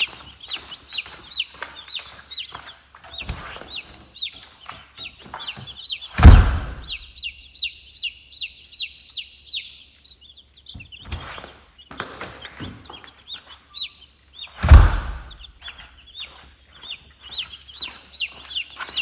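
A brood of young Cornish cross meat chicks peeping continuously, many short falling high-pitched peeps in quick succession. Two loud knocks cut through, about six seconds in and again near fifteen seconds.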